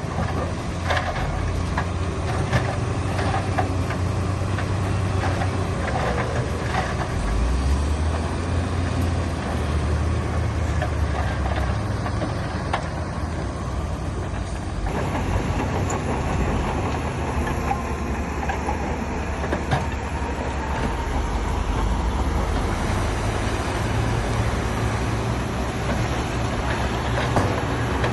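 Heavy earthmoving machinery working: deep diesel engine rumble with scattered metallic clanks and rattles, the sound changing abruptly about halfway through.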